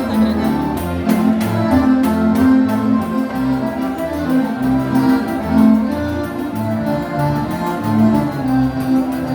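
Live instrumental gaúcho dance music from a band: a sustained melody line over a pulsing bass, with a steady beat.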